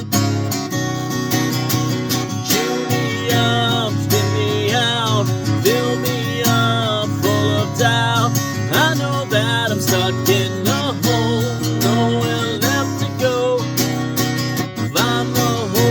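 Song intro with acoustic guitar strumming over a steady bass, and a melody line that slides between notes from a few seconds in.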